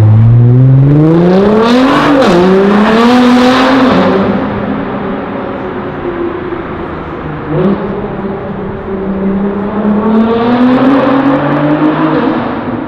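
A performance car's engine revving hard as the car accelerates away. The pitch climbs and drops twice with quick upshifts in the first few seconds, then fades. About halfway through, another engine note comes in and rises steadily as a car builds speed.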